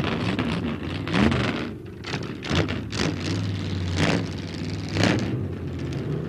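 Motor-vehicle engine running with a steady low hum, revving up in short bursts about once a second.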